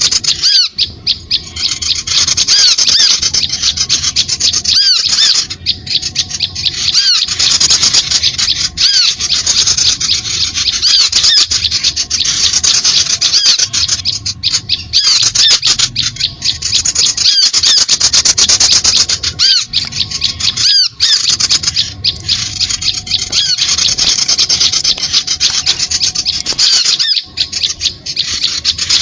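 Many small birds chattering together, a dense, loud run of fast overlapping chirps and squawks, played as a bird-lure call.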